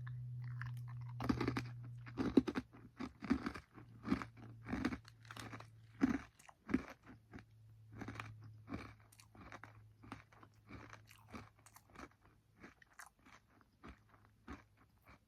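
A person biting into and chewing a crunchy oat granola bar: a first crunch about a second in, then a long run of crisp crunches that grow fainter toward the end.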